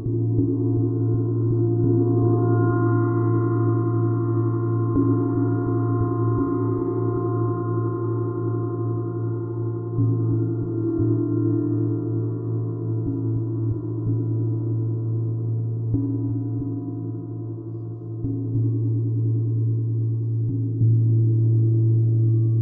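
A gong ringing in a long, continuous wash with a deep drone, softly re-struck every few seconds so the sound swells and shifts.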